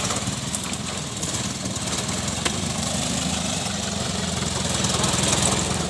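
Daihatsu Taft Hiline diesel engine running steadily with an even pulse, swelling slightly near the end; a single sharp click about two and a half seconds in.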